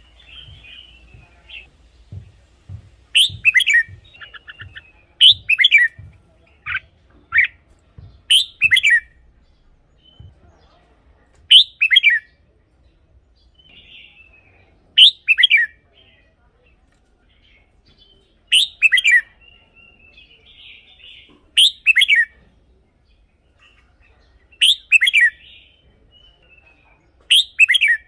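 Red-whiskered bulbul singing: short loud song phrases about every three seconds, each a quick run of falling whistled notes, with softer chattering between them.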